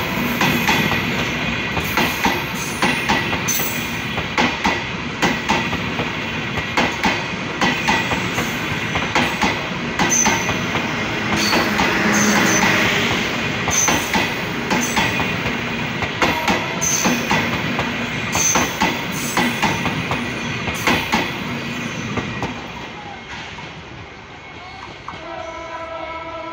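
Passenger coaches of the Chilahati Express, a Bangladesh Railway intercity train, rolling past close by, the wheels clacking over rail joints in a steady rhythm, then fading as the train draws away. A horn sounds near the end.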